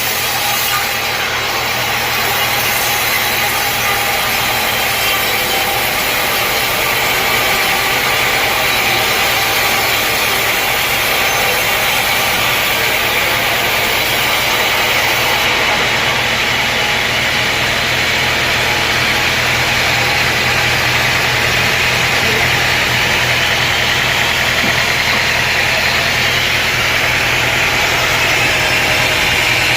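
Sawmill running steadily: an engine drone under the noise of a saw cutting through wood.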